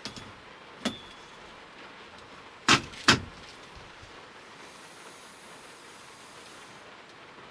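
Steady typhoon rain hissing on a camper van, with a small click about a second in and two sharp knocks about half a second apart near the middle, as things are handled inside the van.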